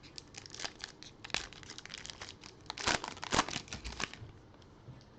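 Crinkly plastic wrapper of a trading-card pack being torn open and crumpled, a run of sharp crackles with the busiest stretch about three to four seconds in.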